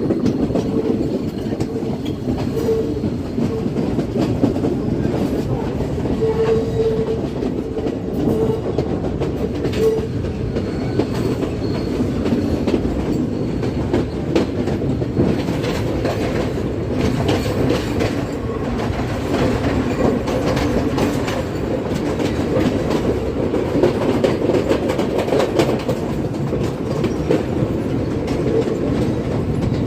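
Train running along the track: a steady rumble of wheels on rail with clickety-clack over the rail joints.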